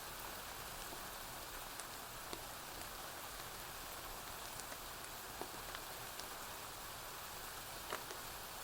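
Steady rain falling, an even hiss, with a few scattered sharp pops; the loudest pop comes near the end.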